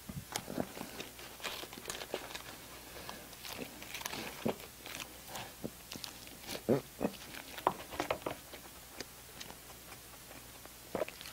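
Close-miked mouth sounds of a person chewing food: irregular wet smacks and small clicks, several a second, with no steady rhythm.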